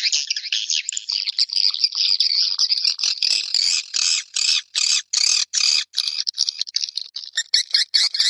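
Swiftlets twittering in a swiftlet calling track: dense high chirping, first a continuous chatter, then separate chirps about three a second, quickening again near the end.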